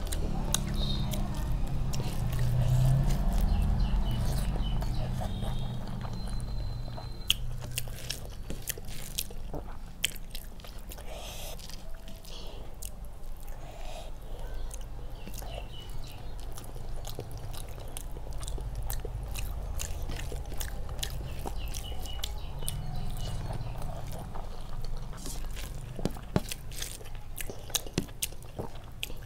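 Close-up chewing and mouth sounds of someone eating rice mixed with dal and fish curry by hand, with many small wet clicks and smacks throughout.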